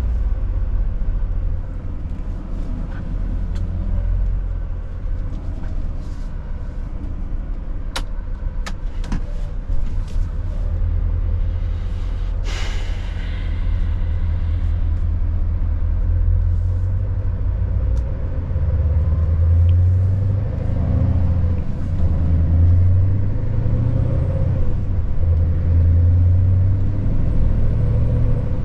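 Scania S580 truck's V8 diesel engine running steadily under way, growing louder in the second half. A few sharp clicks come between about 8 and 10 seconds in, and a short hiss of air about 12 seconds in.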